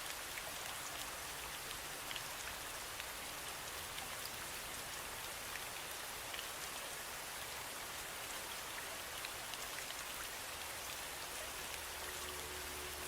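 Steady rain falling, an even hiss with scattered ticks of single drops. A low steady tone comes in near the end.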